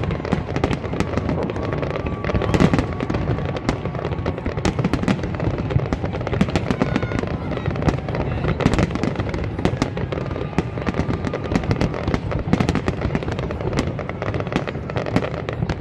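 Fireworks display: a dense barrage of bangs and crackles in quick succession, going on without a break.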